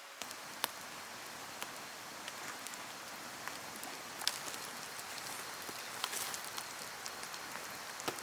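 Campfire crackling: a steady hiss with irregular sharp pops, a few of them louder.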